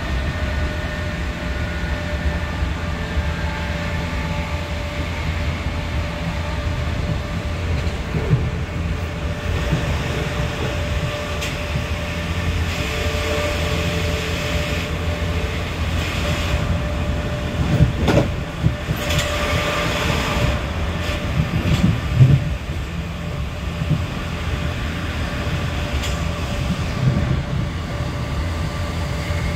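Interior running noise of a Class 465 Networker electric multiple unit at about 65 mph: a steady low rumble of wheels on rail with a faint steady whine from the traction equipment. A few sharp knocks over the rails and two spells of louder rushing noise come in the middle.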